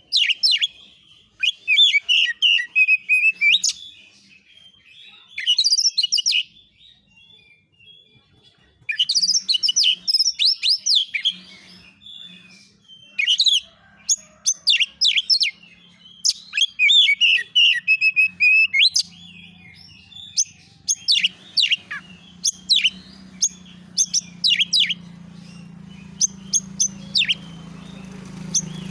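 Oriental magpie-robin (kacer) singing in bursts of rapid, sharp chirps and whistled phrases with short pauses between them. A low steady hum comes in about two-thirds of the way through and grows louder toward the end.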